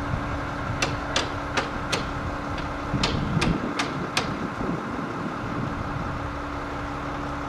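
Hammer blows during roof repair: two quick runs of four sharp strikes, about three a second, over a steady machine hum.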